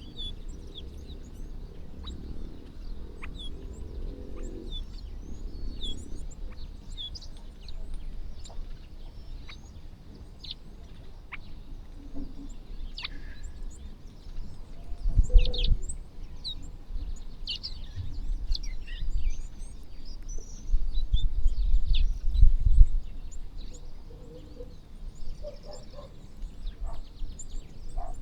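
Many small birds chirping at once in short, scattered calls. Low rumbling thuds come in twice past the middle, louder than the birds.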